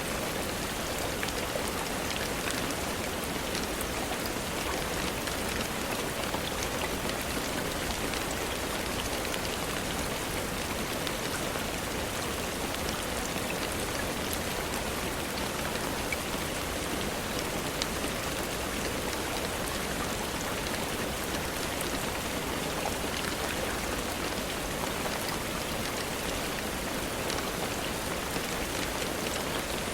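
Steady rain falling on a surface, an even hiss thick with small drop ticks.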